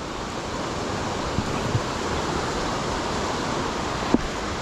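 Steady rushing of a waterfall and fast water pouring through a narrow rocky gorge. A few light knocks sound over it, the sharpest near the end.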